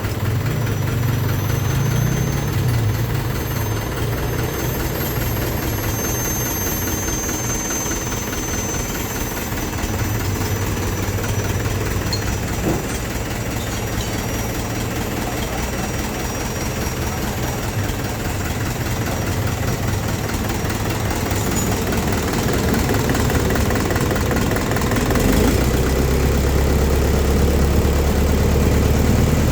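Mitsubishi PS120 single-cylinder diesel engine running steadily, getting a little louder over the last few seconds.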